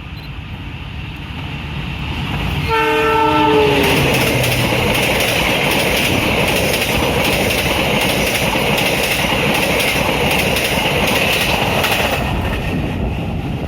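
A train's horn sounds once about three seconds in, a chord of several steady tones that sags slightly in pitch as it ends. The train then runs past at speed with a loud rumble and wheels clattering over the rail joints, easing off near the end.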